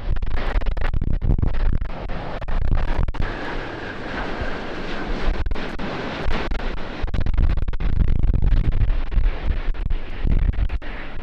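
Strong wind buffeting the microphone, mixed with the rumble and hiss of an Airbus A350-1000's Rolls-Royce Trent XWB jet engines on landing. The gusts ease in the middle, where the engine hiss and a faint steady whine come through more clearly.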